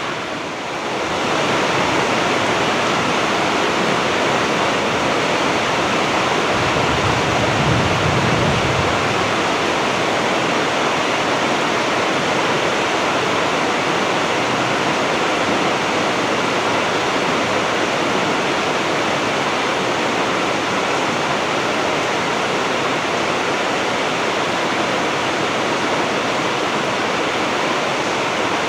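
Heavy rain falling steadily, a dense, even hiss that swells up about a second in.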